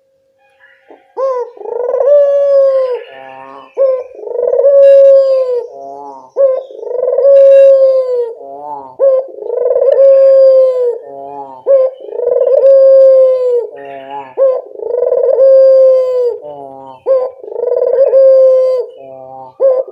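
Puter dove (Indonesian turtle-dove) lure call, starting about a second in. Each phrase is one long, steady coo followed by a quick rolling run of short notes. The phrase repeats loudly about every two and a half seconds.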